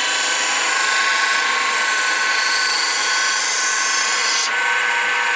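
Wood lathe running while a turning tool cuts the outer edge of a spinning wooden piece: a steady hiss of cutting over the lathe's steady whine. About four and a half seconds in, the cutting hiss falls away and the whine carries on.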